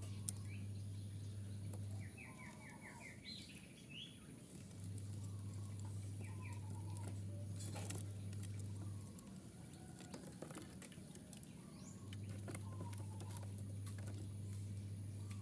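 Zebra dove (perkutut) cooing in short patterned phrases, with quick chirps from other small birds. A low steady hum cuts out twice and comes back.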